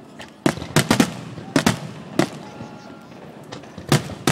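Fireworks shells bursting in a starmine finale barrage: an uneven series of about ten sharp bangs, with a quick cluster about half a second to a second in and more near the end.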